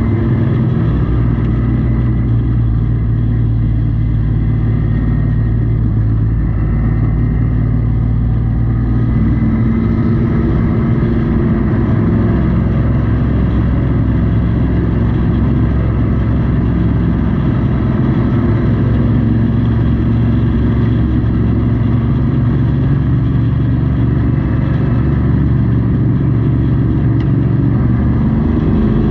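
Pro Truck race truck's engine running at a steady pitch, heard from inside the cab, stepping up slightly in pitch about nine seconds in.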